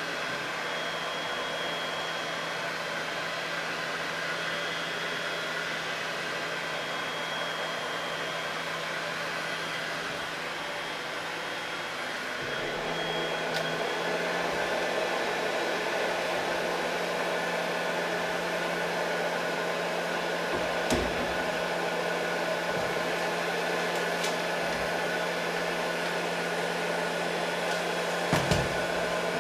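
An electric motor running steadily with a rushing air noise and a low hum. About halfway through, the hum steps up in pitch and the rush grows fuller. There are a few sharp knocks near the end.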